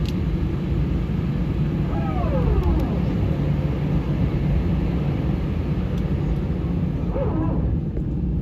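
Steady low rumble inside an Airbus A319's cabin from its engines and airflow. A brief falling tone cuts through about two seconds in, and a short higher sound comes near the end.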